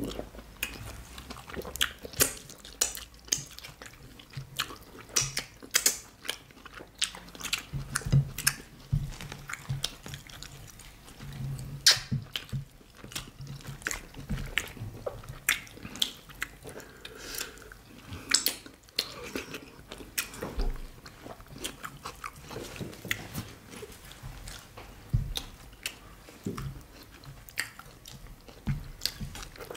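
Close-up chewing and wet mouth sounds of people eating fufu and banga soup by hand: a dense, irregular run of smacks and clicks.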